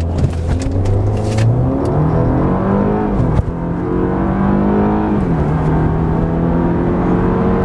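A BMW's 2.0-litre engine accelerating at full throttle from a launch-control start, heard inside the cabin. The revs climb, fall at an upshift about three seconds in, climb again, and fall at a second upshift a little past five seconds.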